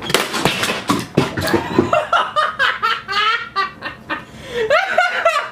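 A person laughing hard in repeated short bursts, with a clatter of sharp knocks in the first couple of seconds.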